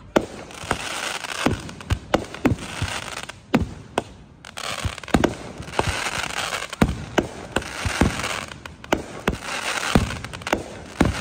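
Aerial fireworks going off overhead: a rapid, irregular string of sharp bangs from bursting shells, about two a second, over a steady crackling hiss from the burning stars and rising comets.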